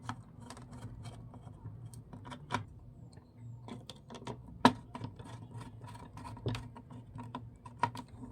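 Scattered small clicks and taps of tools and electronic parts being handled at a workbench while capacitor leads are reworked, with one sharper snap about halfway through, over a low steady hum.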